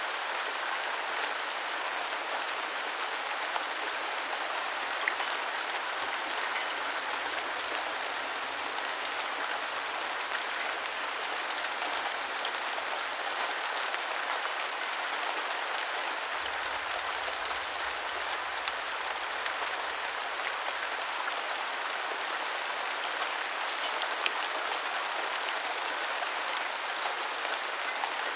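Steady rain falling, an even dense hiss with scattered individual drop ticks.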